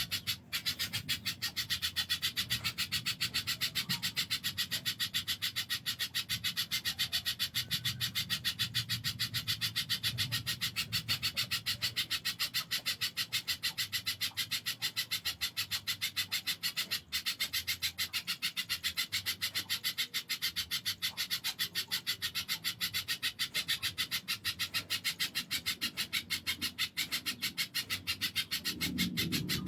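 Spiderhunter (pijantung) song: a fast, even run of clicking notes kept up for the whole stretch, broken only briefly just after the start and about halfway through.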